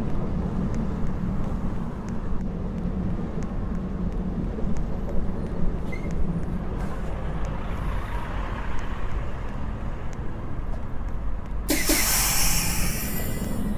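New York City subway train running, a steady low rumble. About 12 s in, a sudden burst of loud hissing air lasts about two seconds.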